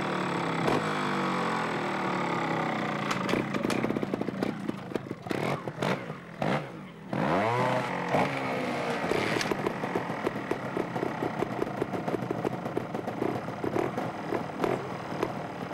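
Gas Gas trials motorcycle's two-stroke engine running, revved up and down several times with a sharp blip about seven seconds in, then settling into a fast, even idle.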